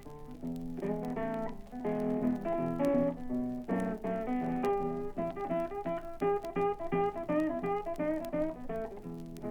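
Solo blues guitar playing an instrumental break between sung verses: picked notes over a repeating bass, turning into a quick run of single notes about halfway through.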